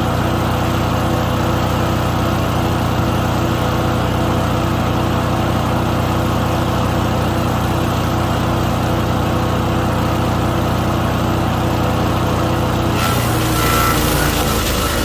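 Small gas engine of a wood chipper running steadily. Near the end a loud, hissing shredding noise comes in and the engine's pitch sags as it takes a load of material.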